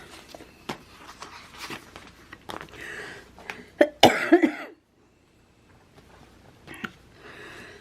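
A woman coughs, one short loud burst about four seconds in, with a few light taps and rustles before it.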